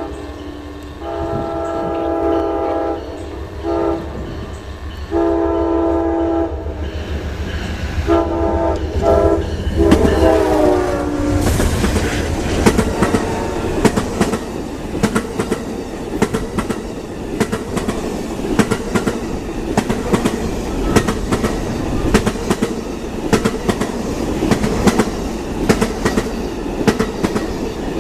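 Amtrak Auto Train's locomotive horn sounding several blasts, the last one dropping in pitch as the locomotive goes by about ten seconds in. Then the long train rolls past at speed, with a steady clickety-clack of wheels over the rail joints.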